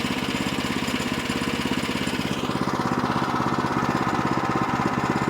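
Small gasoline engine of a Woodland Mills portable sawmill running steadily with a rapid even pulse; the higher hiss in its sound fades about halfway through.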